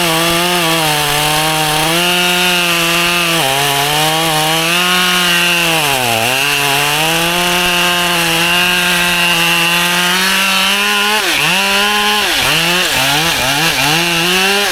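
Husqvarna two-stroke chainsaw at full throttle cutting through white oak. Its high, steady pitch sags briefly twice as the chain loads up in the cut, then drops and rises several times in quick succession near the end.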